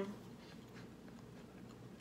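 Faint close-miked chewing of a soft mouthful of KFC Famous Bowl, with small wet mouth clicks, after a short hummed "mm" that ends right at the start.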